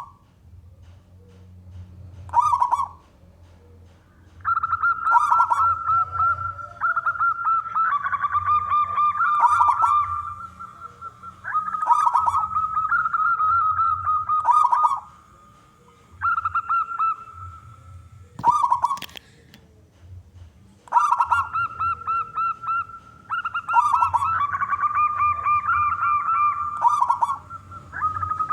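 Male zebra doves (perkutut) cooing in long, rapid staccato phrases of several seconds. At times two voices overlap at slightly different pitches, with short single calls in the gaps. A steady low hum lies underneath.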